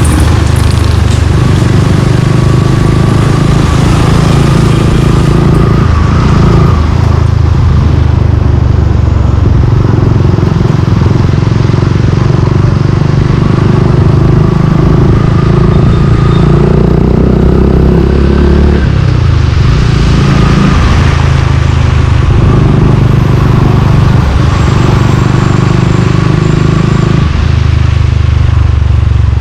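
Suzuki Gixxer 155's single-cylinder engine running through an aftermarket exhaust while the bike is ridden. The engine note steps up and down every few seconds as the revs change.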